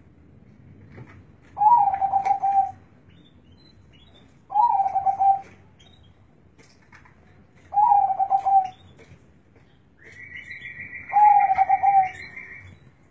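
Zebra dove (perkutut) cooing: four similar phrases about three seconds apart, each opening on a higher note and then running as a quick string of coos. Near the end a higher, fast-pulsing trill runs for a couple of seconds and overlaps one phrase.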